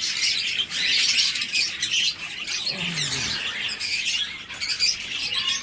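A flock of budgerigars chattering, many small birds chirping at once in a dense, unbroken chatter.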